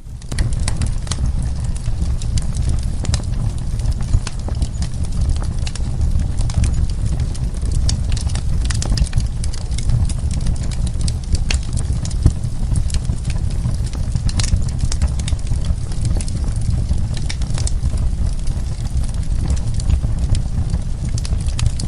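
Wood fire crackling, with frequent sharp pops and snaps at irregular intervals over a steady low rumble of the burning fire.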